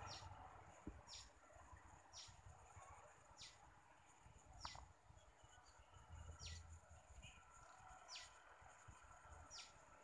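A small bird's faint call, a short high thin whistle falling steeply in pitch, given eight times at intervals of one to two seconds.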